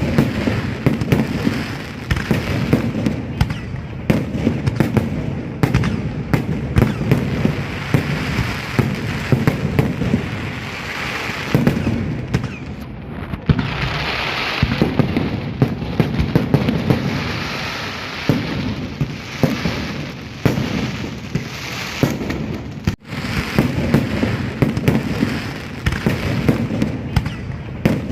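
Fireworks display: a dense, continuous barrage of bangs and crackling, with a momentary break about two-thirds of the way through.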